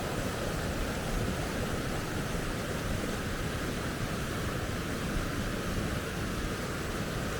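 River rapids: water rushing over rocks, a steady, unbroken roar of noise.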